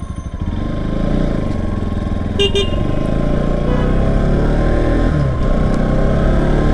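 Bajaj Pulsar NS200 single-cylinder motorcycle engine running as the bike rides, picking up over the first second. A quick double horn beep sounds about two and a half seconds in.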